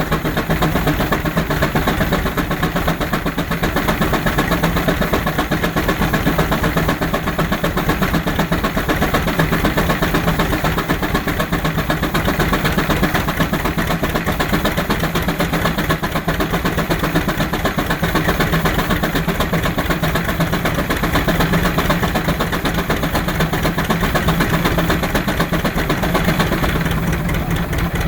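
George White steam engine running steadily, belted to a power eater as its load, with a rapid, even beat.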